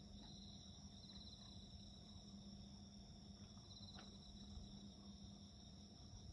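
Faint chorus of crickets: a steady high chirring with a pulsing trill that comes back every few seconds. Over it, a few soft crackles from a wood fire, the sharpest about four seconds in.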